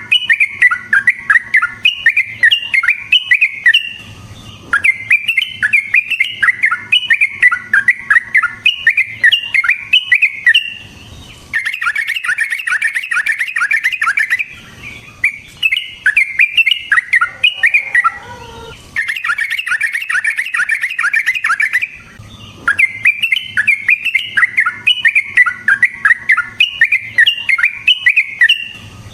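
Yellow-vented bulbul (trucukan) singing long, rapid rolling phrases of bubbly chirping notes, broken by several short pauses. Near the middle, one phrase ends in a run of notes sliding down in pitch.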